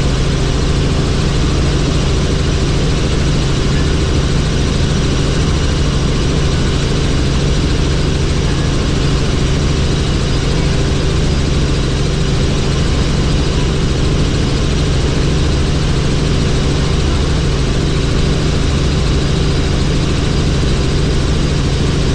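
Helicopter in flight: a loud, steady drone of engine and rotor with a constant low hum, unchanging throughout.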